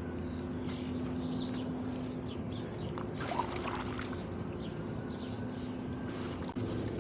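Canoe paddles dipping and pulling through the water, with small splashes and drips, over a steady low mechanical hum.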